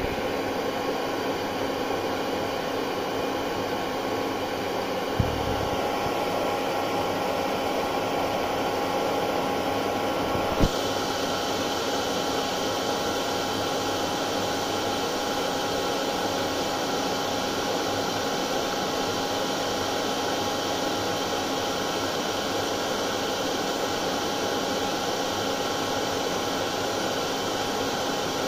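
A hair dryer runs steadily: a constant rush of blown air with a steady motor hum. There is a brief thump about five seconds in and a sharp click about ten seconds in, after which the sound turns slightly brighter.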